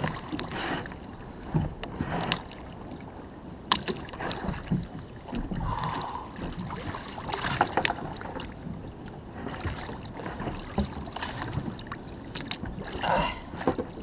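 Water sloshing and splashing around a fishing kayak, with scattered knocks and clicks from handling on the hull and some wind on the microphone.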